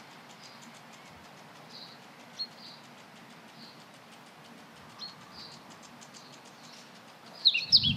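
Birds chirping: short, faint high chirps every second or two. Near the end a loud bird song of quick, high, rising and falling whistles begins.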